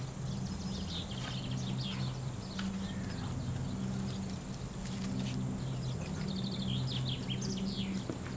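Small birds chirping and twittering in short, repeated phrases, over a steady low hum.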